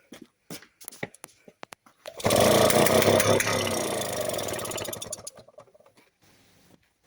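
Atco Midget's 98cc two-stroke engine, after a few light clicks, suddenly catches about two seconds in, runs loudly for a few seconds, then fades out and dies.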